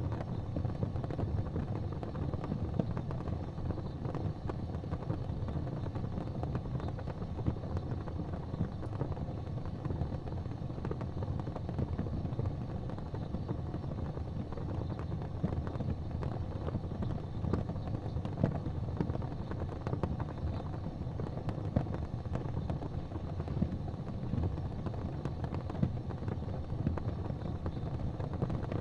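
Wood fire burning in a fireplace: a steady low roar of the flames with frequent small crackles and a few louder pops.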